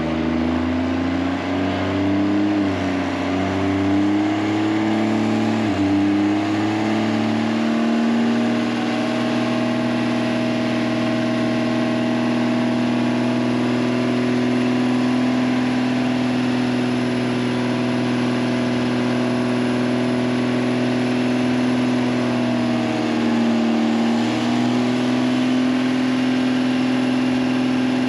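A truck engine revs up over several seconds, then is held at steady high revs, dipping briefly near the end before climbing again.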